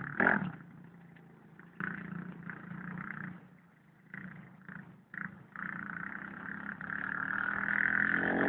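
Dirt bike engine running in the distance, its note fading and coming back in spurts, then holding and growing steadily louder over the last few seconds as it comes nearer.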